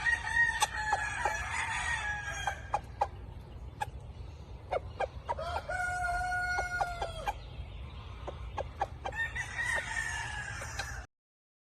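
Roosters crowing: three long crows one after another, with scattered sharp clicks between them. The sound cuts off suddenly near the end.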